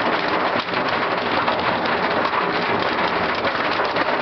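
Hail striking a car's body and windows in a dense, steady clatter of many small impacts.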